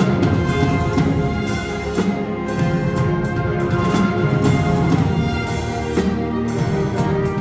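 Wind ensemble playing: sustained, layered chords from the winds, with a few sharp percussion strikes.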